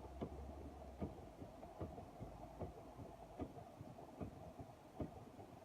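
Inside a vehicle in a hurricane: steady rumble of wind and rain, with a sharp knock repeating at an even pace, a little more than once a second.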